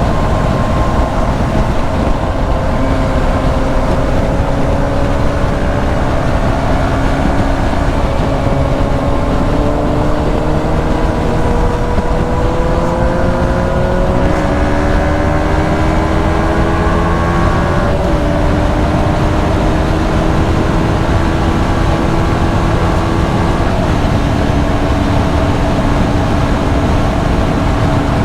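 KTM 125 Duke's single-cylinder four-stroke engine running under way, its pitch rising slowly through the first half, dipping briefly a few times in the middle, then holding steady near the end, over heavy wind and road rush.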